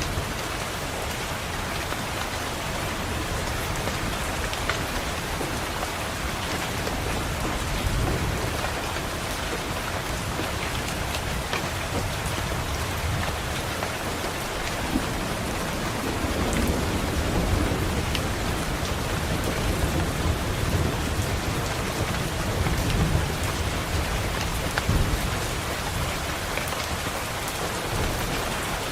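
Steady rain falling, with low rolls of thunder rumbling underneath: one swell about a third of the way in and longer rolls through much of the second half.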